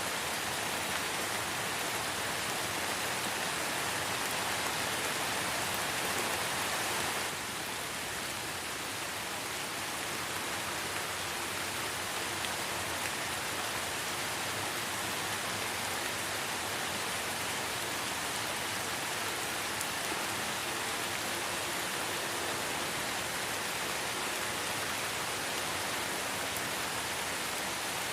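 Light rain falling in a forest, a steady even hiss of drops. About seven seconds in it drops slightly in loudness and turns a little softer.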